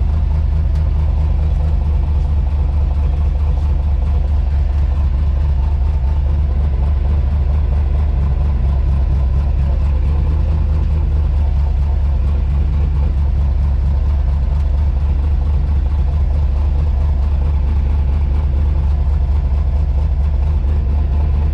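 Drift truck's engine idling steadily, a constant low rumble with no revving.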